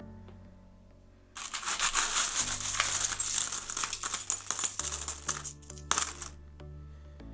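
Loose metal coins clinking and jangling as a hand rummages through a tub of them, starting about a second and a half in and stopping about a second before the end, over soft background music.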